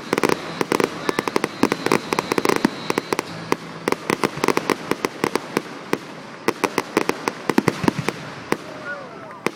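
Fireworks display going off in rapid volleys of sharp bangs and crackles, many a second, thinning out near the end as the show finishes.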